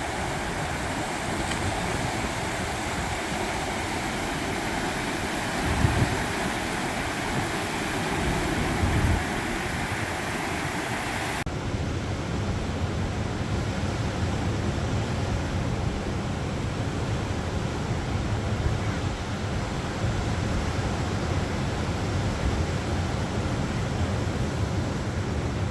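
Ocean surf washing onto a beach, with wind buffeting the microphone. About eleven seconds in, the sound changes abruptly: the bright hiss of the surf drops away and a low wind rumble takes over.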